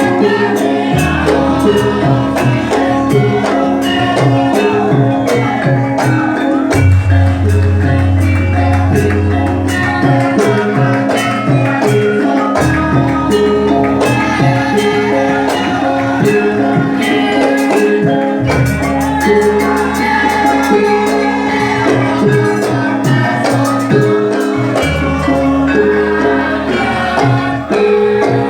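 Javanese gamelan music accompanying a jathilan dance, played with drums and struck metal instruments in a steady, repeating rhythm.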